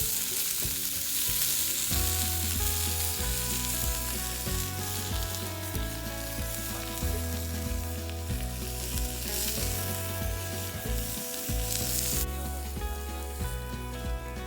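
Food sizzling and crackling in hot oil as it cooks, a steady hiss that weakens near the end. Background music with a bass line comes in about two seconds in.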